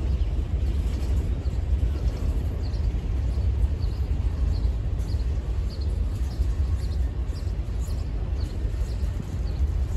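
Freight train of covered hopper cars rolling past, a steady low rumble of wheels on rail.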